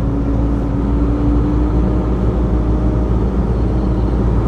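Steady low rumble of a semi-truck running, heard from inside the cab, with a faint steady hum that fades out about halfway through.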